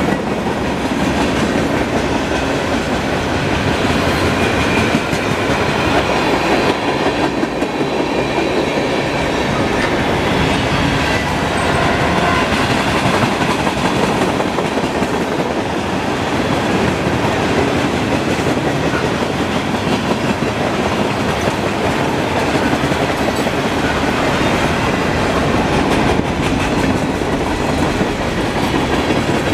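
Loaded and empty freight cars of a mixed freight train rolling past close by: a loud, steady clatter and rumble of steel wheels on rail.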